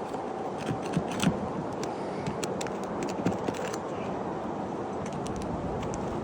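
Scattered light clicks, scrapes and a few knocks over a steady background hum of outdoor noise, the loudest knocks about a second in.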